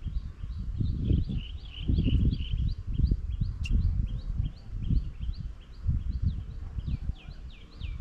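A bird calling in a fast, even series of short high notes, about three a second, the last few drawn out into falling notes near the end. Under it runs a louder, uneven low noise.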